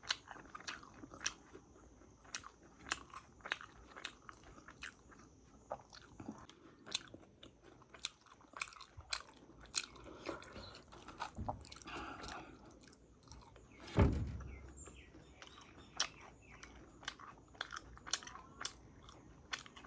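Someone chewing and biting into crunchy fried momos, with irregular sharp crunches throughout. There is a dull thump about fourteen seconds in.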